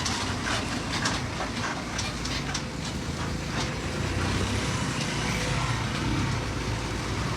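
Diesel engine of heavy construction machinery running steadily, with scattered clicks and knocks, most of them in the first few seconds.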